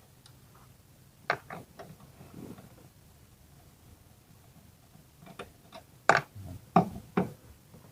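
Sharp clicks and knocks of hand tools and parts being handled during repair work on the engine bay: a few about a second in, then a louder cluster of four between five and seven seconds.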